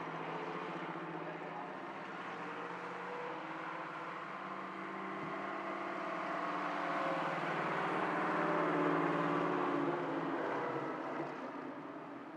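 Vintage straight-eight car engine running. It grows louder to a peak about nine seconds in, then fades.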